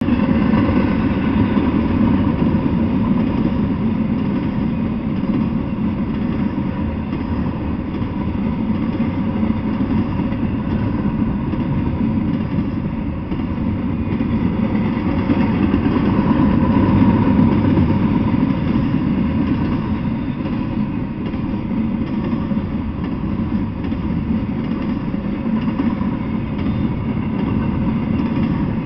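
Double-stack intermodal freight train rolling steadily past: a continuous deep rumble of steel wheels on the rails that swells a little in the middle.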